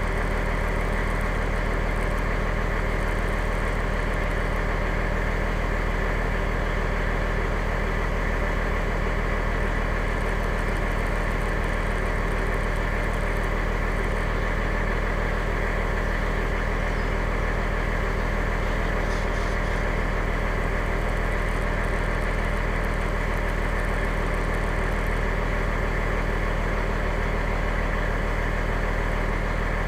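Fire engine's engine running steadily at a constant pitch, heard through the truck's dash camera.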